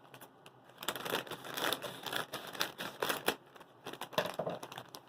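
A plastic chip bag of Fritos crinkling as it is pulled open, mostly in the first three seconds, with smaller rustles near the end.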